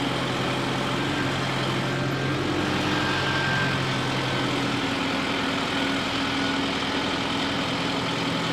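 Loader tractor's engine running steadily while clearing out a cattle barn, its engine note shifting about five seconds in.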